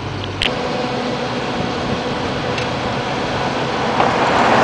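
Truck-mounted crane's engine running steadily, with a sharp click about half a second in and the noise swelling near the end.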